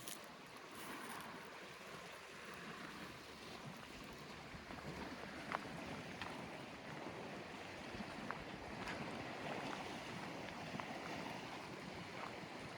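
Small lake waves lapping in a faint, steady wash, with a few short splashy ticks, the sharpest about five and a half seconds in.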